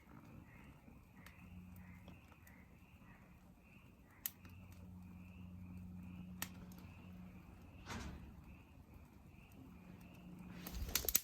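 Faint outdoor ambience in which a small animal calls over and over, two or three short calls a second, over a low steady hum. There are a few isolated clicks, and near the end a quick run of clicks grows louder.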